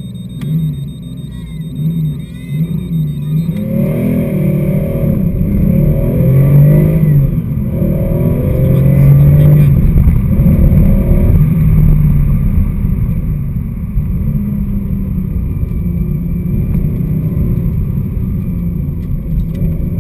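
Porsche 911 SC's air-cooled flat-six heard from inside the cabin. It pulls away hard about four seconds in, revving up through the gears with a short break at each change, then runs on at speed.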